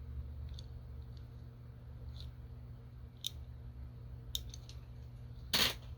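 Handling of a small die-cast toy truck: a few faint light clicks, then a short louder rustle near the end, over a steady low electrical hum.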